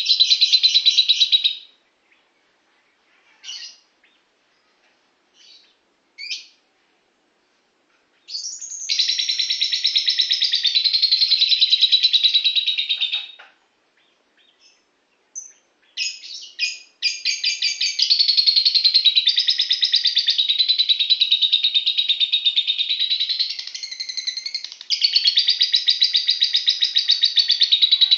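Lovebird singing long runs of fast, rapidly repeated chattering notes, with short chirps in the gaps. The bouts stop about two seconds in, return for about five seconds from around 8 s, and then run without a break from about 17 s onward.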